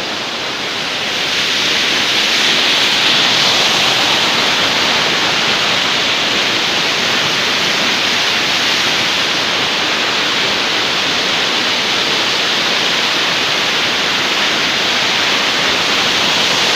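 Waterfall: loud, steady rush of falling water, growing a little louder about a second in.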